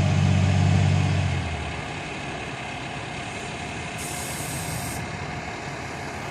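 Fire truck diesel engine running loud and close, dropping away after about a second and a half as it moves off. A steady rumble of idling heavy engines carries on, with a short air-brake hiss about four seconds in.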